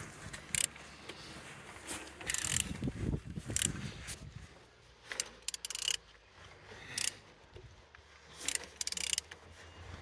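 EF07NXT engine being turned over by hand with a wrench: irregular ratchet clicks and short metallic scrapes. It turns over freely, a sign the engine is not seized.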